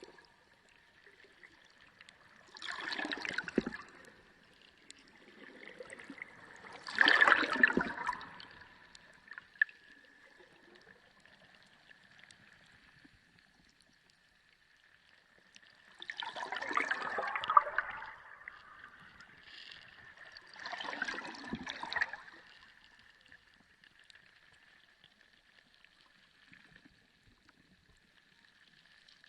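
Underwater sea sound: water gurgling and rushing in four separate swells, with quieter stretches between and a faint steady tone underneath.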